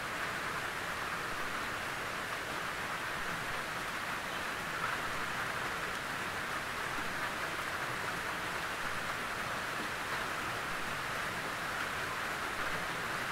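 Steady rain falling on a tin roof, an even patter of drops on metal sheeting.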